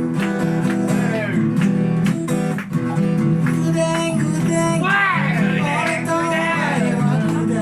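Live acoustic guitar strummed in steady chords, with a voice singing over it in the second half.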